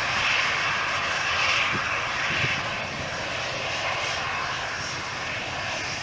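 Jet airliner engines making a steady rushing noise that is loudest in the first few seconds and then eases slightly.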